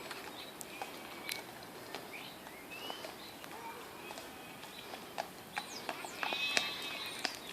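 Faint hoofbeats of a horse moving over the ground, uneven knocks, with birds chirping now and then.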